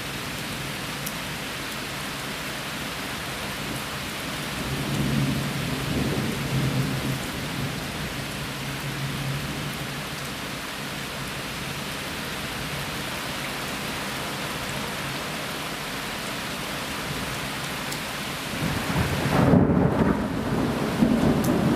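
Heavy rain falling steadily during a thunderstorm, with thunder rumbling twice: a soft roll about five seconds in and a louder one starting near the end.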